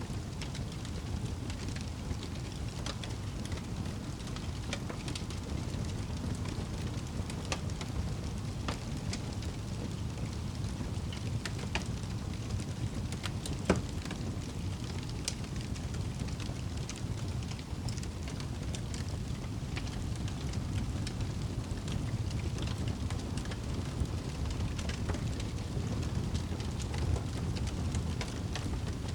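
Wood fire burning in a fireplace: a steady low rumble of flames with scattered crackles and snaps, and one louder pop about halfway through.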